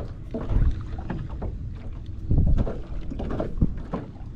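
Gusty wind buffeting the microphone on open water, a low rumble that swells in uneven gusts, with water lapping against the small boat's hull.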